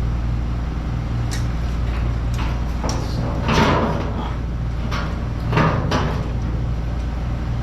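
Several clunks and scrapes of metal parts being moved and fitted, the two loudest a few seconds apart in the middle, over a steady low hum.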